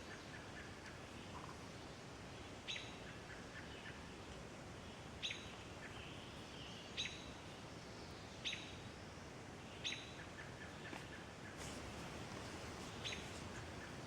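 A bird giving a short, sharp, high call six times, one every couple of seconds, with fainter bird chirps between.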